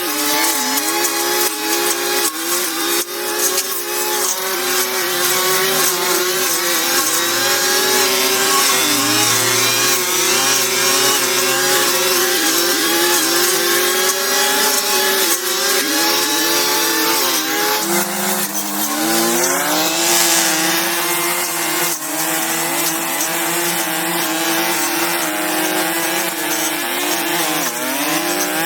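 A small motor-driven power tool running at high speed, its pitch dipping again and again as if under load. About 18 s in it drops sharply, then climbs back.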